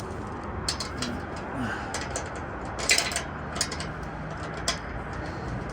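A few sharp metallic clicks and taps from a socket being handled and fitted by hand onto an exhaust clamp nut, the loudest about three seconds in, over a steady background hum.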